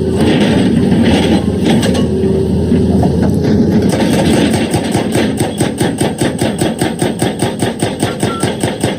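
Excavator working rock: heavy diesel machinery running with a rapid, even pulsing of about five beats a second.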